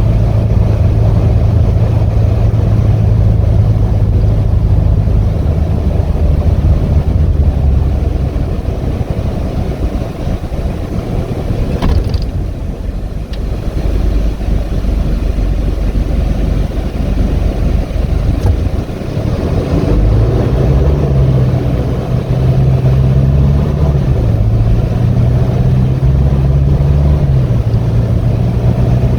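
2018 Hino 155 box truck's diesel engine running under way, with road noise, heard from inside the cab. In the second half the engine note rises and drops in steps a few times as the truck pulls and its automatic transmission shifts.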